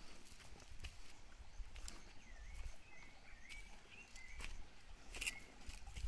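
Faint outdoor ambience: a small bird gives a quick run of about six short, hooked chirps starting about two seconds in, over scattered light ticks and a low wind rumble on the microphone.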